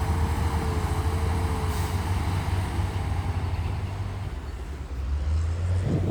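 Heavy earthmoving machinery's diesel engine running steadily under work, with a thin whine over it for the first couple of seconds. The engine eases briefly near the end, then picks up again.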